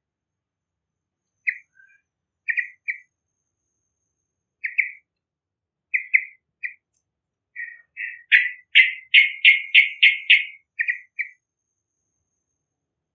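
Sooty-headed bulbul (trucukan) calling: short chirping notes spaced a second or two apart, then a louder, quick run of about eight notes about eight seconds in.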